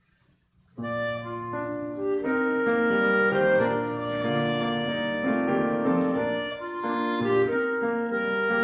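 A solo clarinet starts playing a slow melody with piano accompaniment about a second in, after near silence.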